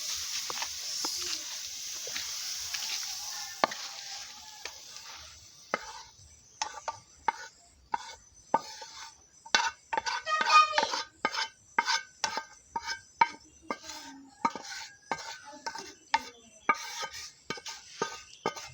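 Stir-fried vegetables sizzling in hot oil, the hiss fading away over the first five seconds. Then a spoon clinking and scraping against cookware again and again, as the vegetables are scooped out and mixed.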